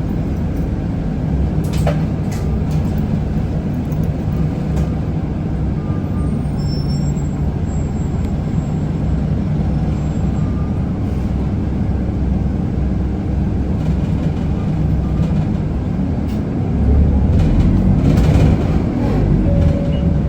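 Isuzu Erga city bus heard from inside the cabin, its four-cylinder diesel engine running steadily; about 17 seconds in the engine grows louder and deeper as it pulls harder.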